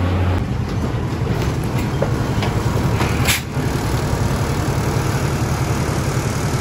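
Steady low running drone of the Botchan Ressha, Iyotetsu's diesel-powered replica steam train, with a short sharp noise a little over three seconds in.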